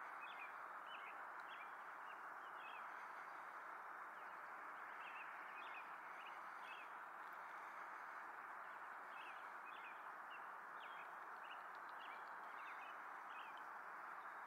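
Faint, steady background hiss with many short, high chirps of small birds calling on and off throughout.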